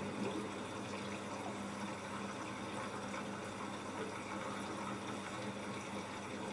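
LG F10A8HDS5 washing machine with water running through it, over a steady hum.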